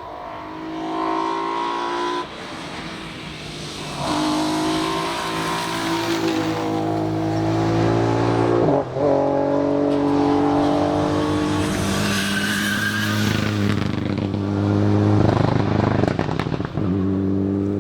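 A rally car's engine at high revs as it drives the stage, the pitch shifting with several brief breaks that sound like gear changes.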